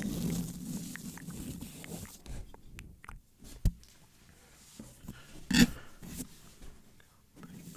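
Wet ASMR mouth sounds close to the microphone: slow lip smacks and tongue clicks, with a dense rustle in the first two seconds and a louder wet smack about five and a half seconds in.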